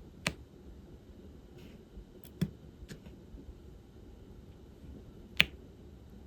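Light, sparse clicks and taps from diamond painting work: a few separate sharp ticks, the loudest about five seconds in.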